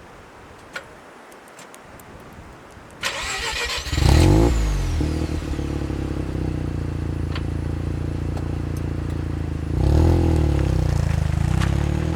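Mazda RX-7 FC3S's 13B twin-rotor rotary engine, breathing through a Knight Sports aftermarket muffler, being started: about a second of starter cranking, then it catches loudly and settles into a steady idle. Near the end it is blipped once, the note rising and falling back to idle.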